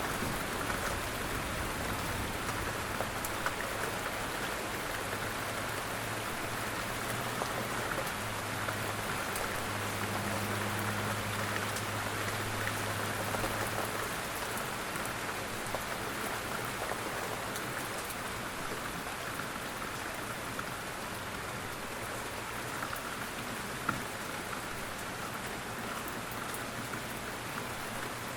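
Steady rain falling, an even dense patter with scattered louder drops. A faint low hum runs underneath for the first half and then fades out.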